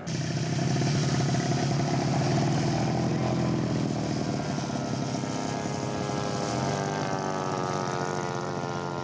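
Engine and propeller of a radio-controlled scale model airplane running steadily, its pitch drifting a little. The sound starts abruptly.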